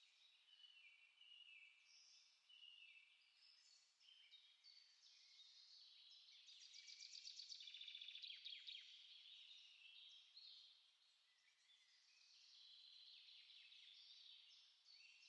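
Songbirds chirping and singing faintly, in short overlapping phrases, with a fast trill of rapidly repeated notes from about six and a half to nine seconds in.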